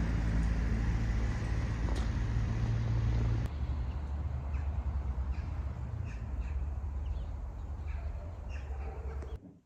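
Outdoor ambience: a steady low rumble with faint short bird calls over it. It changes abruptly about three and a half seconds in and cuts off just before the end.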